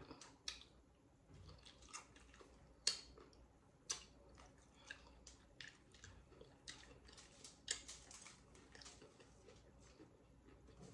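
Faint chewing of a mouthful of nachos, with scattered short crunches and clicks, the sharpest about three, four and eight seconds in.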